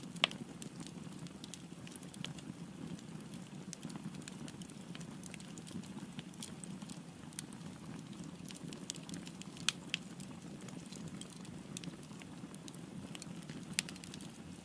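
Wood fire burning with a steady low rush of flames and scattered sharp crackles and pops, three louder pops standing out: one just after the start, one about ten seconds in and one near the end.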